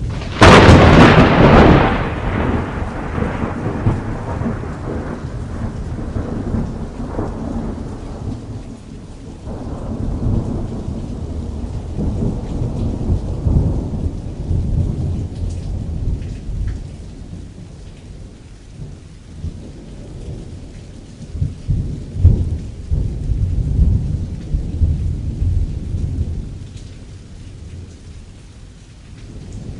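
Thunderstorm: a sharp, close thunderclap about half a second in, rolling off into low rumbling over the next few seconds, and a second roll of thunder swelling in the latter part. Rain falls on a canvas tent throughout.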